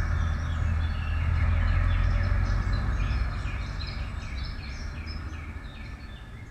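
Low rumble of a passing vehicle fading away, while birds chirp in many short, quick, falling calls.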